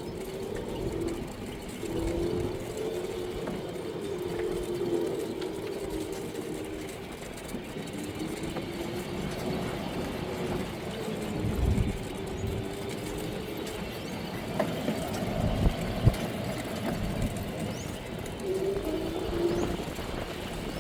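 Electric golf cart riding along: a steady motor whine that wavers up and down in pitch over a low rumble, with a couple of bumps about twelve and sixteen seconds in.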